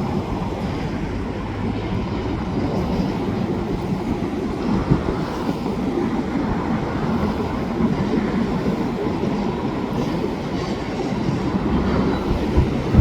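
Freight train rolling past: a steady rumble of wheels on the rails, with a few scattered knocks.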